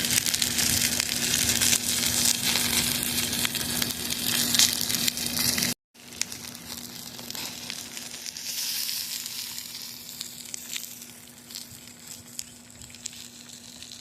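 Fire burning in a small barbecue pit: a loud, steady sizzling hiss, cut off abruptly just before six seconds, then a quieter hiss with scattered sharp crackles and pops.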